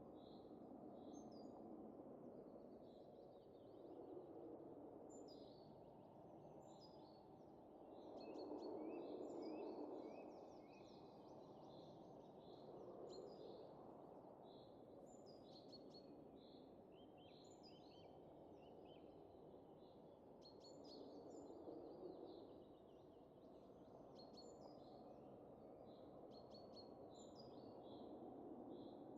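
Quiet winter wind rising and falling in slow gusts, the strongest about nine seconds in, with small birds chirping and twittering throughout.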